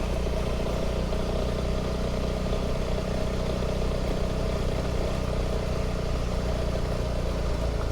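Honda CRF300 Rally's single-cylinder four-stroke engine running steadily at low, even revs as the motorcycle rides along.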